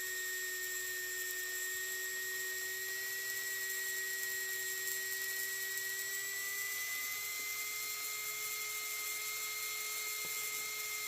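Small electric motor of an old Mantua HO locomotive running with a steady high whine, freshly lubricated and fitted with new neodymium magnets. Its pitch rises slightly about six seconds in as it speeds up.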